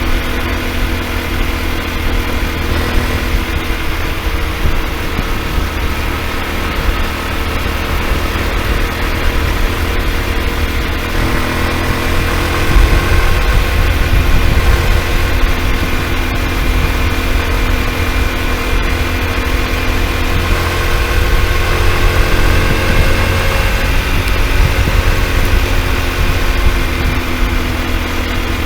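Honda Super Cub single-cylinder four-stroke engine idling, its speed wavering a little now and then. No clicking is heard: the ticking noise is cured, which the owner puts down to the piston having been hitting something.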